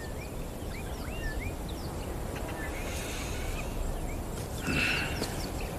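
Outdoor ambience: small birds chirping in short, quick notes over a steady background hiss, with a louder burst of calls about five seconds in.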